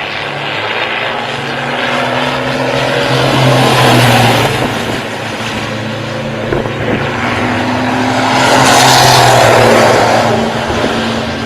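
Racing vehicles' engines passing by, the noise swelling to two loud peaks about five seconds apart.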